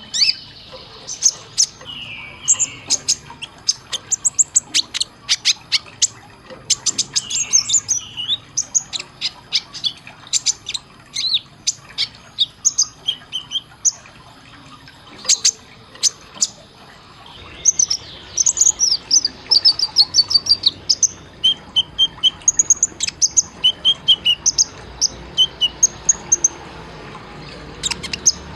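Kolibri ninja sunbird singing: a rapid run of sharp, high chirps and fast trills, with some lower slurred notes. From about two-thirds of the way through it shifts to short, evenly repeated double notes.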